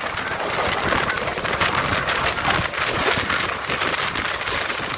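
Mumbai suburban local train running fast, heard from its open doorway: a steady rush of wind over the microphone mixed with the noise and clatter of the wheels on the track.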